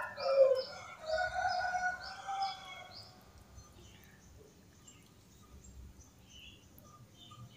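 Birds chirping, a quick run of short high chirps with longer, lower calls under them, fading after about three seconds to faint, scattered chirps.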